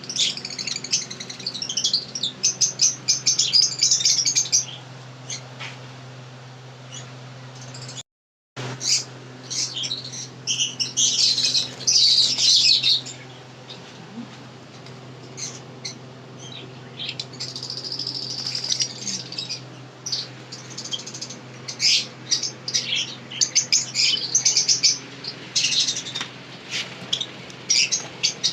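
Pet birds chirping and twittering in busy bursts with short lulls, over a steady low hum. The sound cuts out completely for a moment about eight seconds in.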